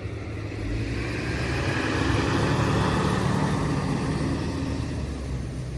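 A road vehicle driving past, its sound swelling to a peak about two to three seconds in and then fading away.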